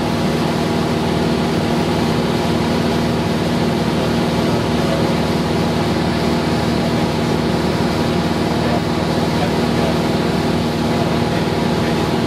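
Cessna 172's piston engine and propeller running steadily in flight, a loud, even drone with a steady hum of several tones, heard inside the cockpit.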